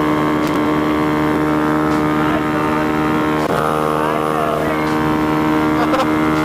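Small motorcycle engine running at a steady cruise, its pitch holding even, with road and wind noise underneath.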